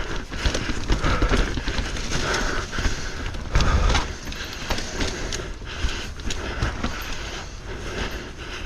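Mountain bike riding down a rough trail: continuous tyre and frame rattle with many sharp knocks from bumps, and heavy low rumbles, loudest about three and a half seconds in.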